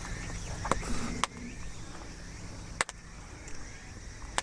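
A few sharp, separate clicks at irregular intervals over a steady outdoor background noise.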